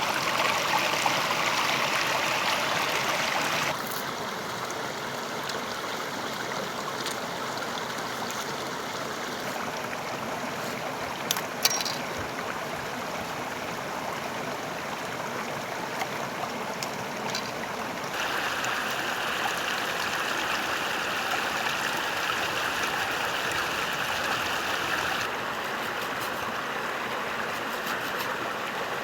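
Stream water running in a steady rush. Its level and tone change abruptly about four seconds in and twice more later on, and a couple of sharp clicks come a little before the halfway point.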